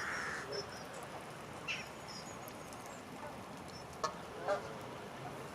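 Geese honking: a few short calls, mostly in the second half, with faint high chirps from small birds over a steady outdoor hiss.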